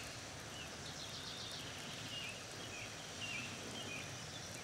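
Birds chirping: short, high, slurred notes every second or so over a steady hiss.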